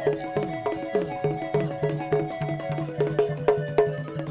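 Live praise-band music with no voice: a fast, even beat of struck percussion over a repeating bass line.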